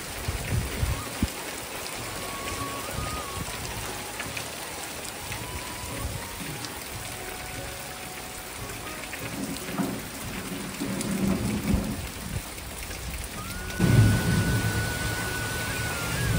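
Heavy rain pouring down in a steady hiss, with thunder rumbling in the second half and a sudden louder peal near the end.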